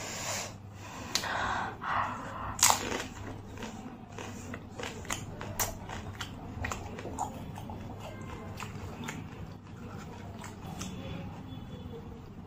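Pani puri being eaten: the crisp hollow puri, dipped in spiced water, cracks and crunches between the teeth. A few louder crunches come in the first three seconds, the sharpest about two and a half seconds in, then a steady run of smaller crunches as it is chewed.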